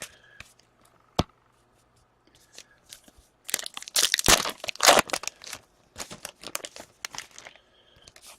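A hockey card pack's wrapper being torn open and crumpled, a dense crackling rip that is loudest a few seconds in, followed by lighter crinkling as the cards are handled. A sharp click comes about a second in.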